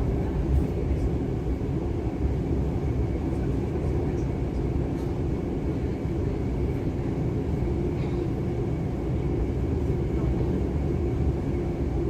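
Interior running noise of a DB class 425 electric multiple unit: a steady low rumble of wheels on track with a faint hum through the carriage.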